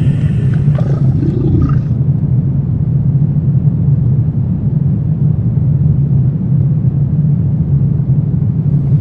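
Deep, steady low rumbling drone of a horror ambience soundscape; a fainter higher sound fades away in the first two seconds, leaving only the rumble.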